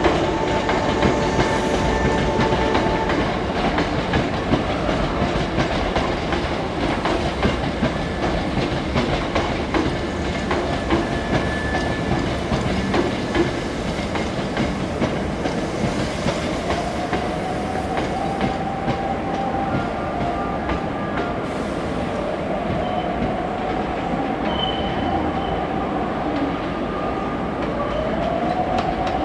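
Hankyu electric train moving through the station, its wheels clicking rhythmically over rail joints over a steady rumble. In the second half a motor whine rises in pitch and levels off, several times over.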